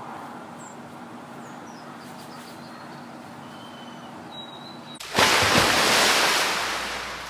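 A few faint bird chirps over a calm, steady outdoor hiss. Then, about five seconds in, an abrupt loud rush of storm wind and wind-driven waves crashing, which fades away over the next two seconds.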